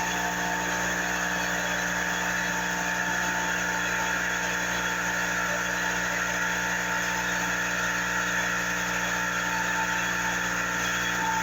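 Shop air compressor running steadily, an even mechanical hum with a few fixed tones and no change in pace.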